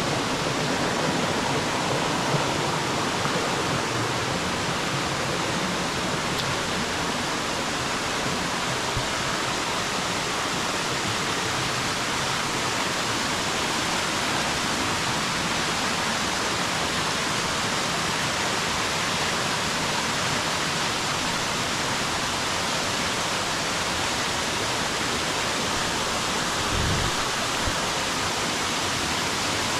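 Steady rush of water from a waterfall, even and unbroken, with one brief low bump near the end.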